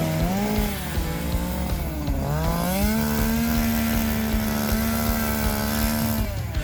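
A two-stroke chainsaw running near full throttle. Its pitch sags twice under load and recovers, then holds steady before the engine note drops away suddenly near the end.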